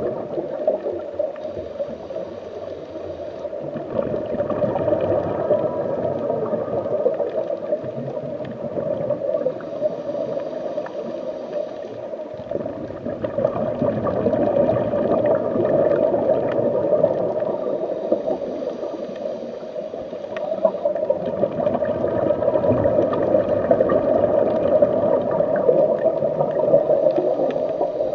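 A scuba diver breathing through a regulator, heard underwater: bubbling that swells and fades in slow breaths, with a faint hiss returning about every eight seconds.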